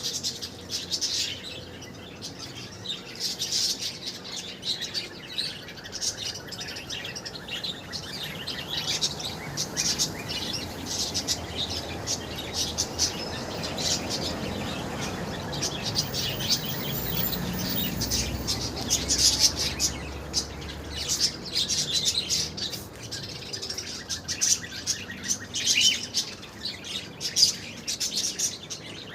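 Many small caged birds chirping at once in an aviary: a busy, overlapping chatter of short, high chirps, with a low rumble swelling about halfway through.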